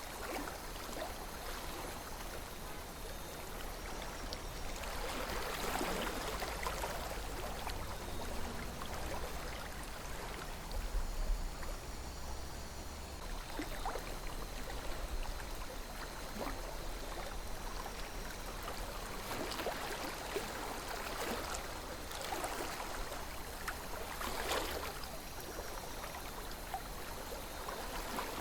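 River water flowing and burbling steadily, swelling now and then, with a low rumble underneath that peaks about eleven seconds in.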